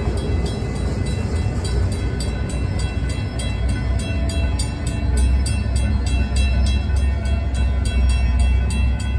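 Florida East Coast freight train rolling past, its wheels clicking over the rail joints about three times a second above a loud low rumble.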